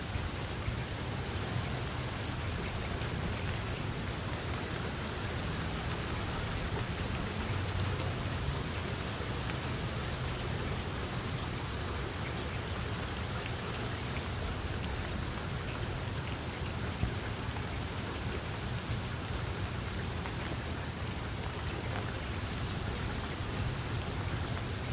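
Steady rain falling, with scattered sharper drop hits and a steady low rumble underneath.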